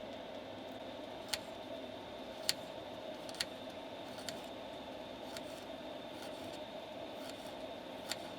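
Bacon frying in a pan on a propane stove: a steady sizzle with a handful of sharp pops scattered through it.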